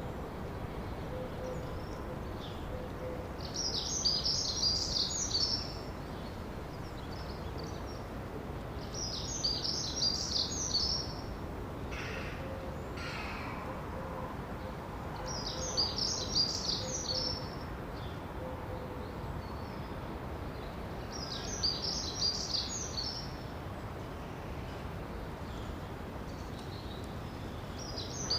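A songbird repeating a short, high, rapid song phrase about every six seconds over a steady background hiss of outdoor ambience, with a couple of fainter, lower calls around the middle.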